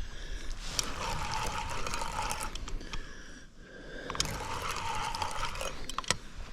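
Fishing reel being cranked in two spells of about two seconds each, with a short pause between, as a hooked catfish is reeled in.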